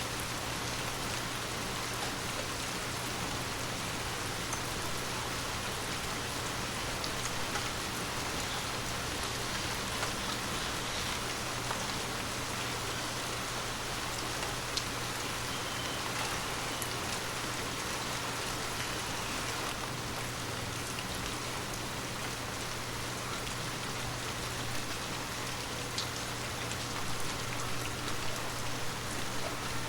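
Heavy rain falling steadily, an even dense hiss with a few sharper drop ticks scattered through it.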